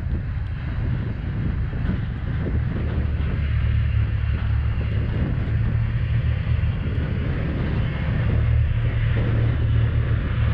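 Tractor engine running steadily while clearing snow, its level swelling slightly now and then.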